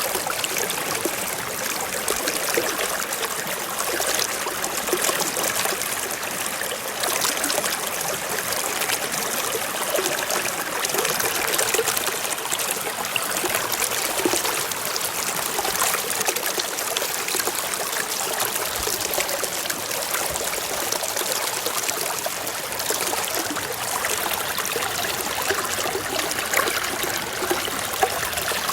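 Forest stream flowing and trickling over rocks: a steady, even rush of water with small gurgles.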